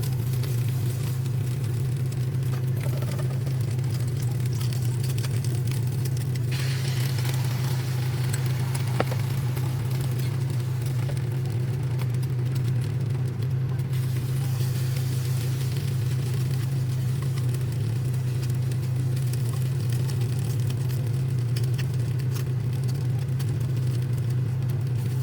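A steady low mechanical hum, with a stretch of hissing noise over it for several seconds starting about a quarter of the way in.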